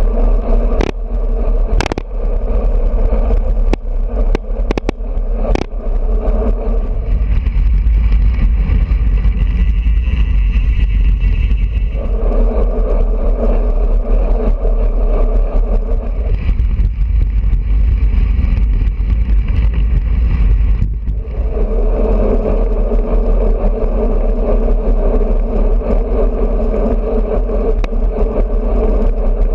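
Wind rumbling over a bicycle-mounted action camera's microphone at riding speed, with steady road and tyre noise that swells and fades. There are a few sharp clicks in the first several seconds.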